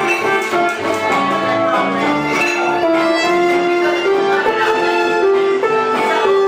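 Live band playing: a violin melody with long held notes over plucked guitar accompaniment.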